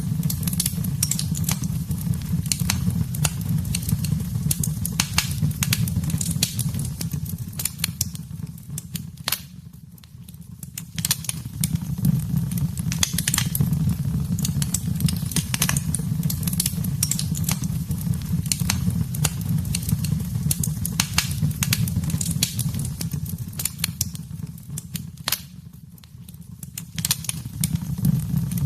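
Wood fire burning in a fireplace, crackling with many sharp pops and snaps over a low, steady rumble of flame. The sound dips briefly twice, about a third of the way in and again near the end.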